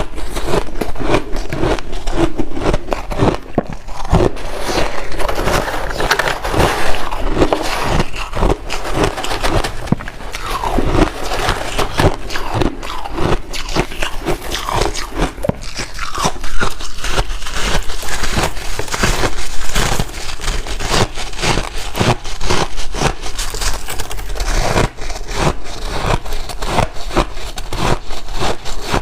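Close-up crunching and chewing of white ice: a dense, continuous run of sharp, crackling crunches as the ice is bitten and ground between the teeth.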